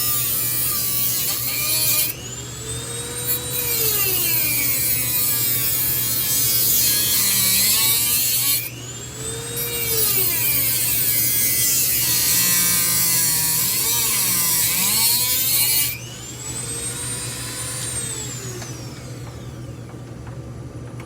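A high-speed power cutting tool grinding through a ceiling-fan motor's copper windings, in three long cutting stretches. Its motor whine rises and falls between cuts, then winds down as it is switched off near the end.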